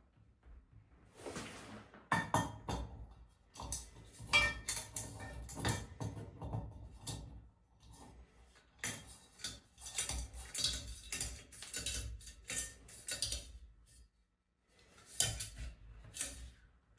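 Hard metal objects clinking and clattering as they are handled, in irregular bursts of knocks and clicks, with a brief pause about three seconds before the end.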